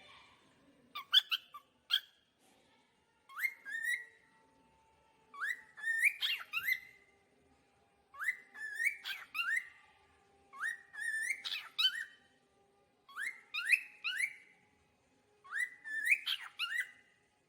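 Cockatiel whistling the same short phrase of rising chirps over and over, about once every two and a half seconds.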